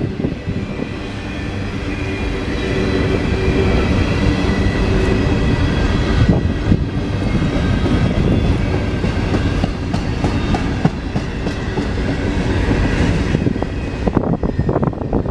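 Train cars rolling past, steel wheels clicking rhythmically over rail joints, with a thin steady squeal from the wheels. The sound builds over the first few seconds and breaks up near the end.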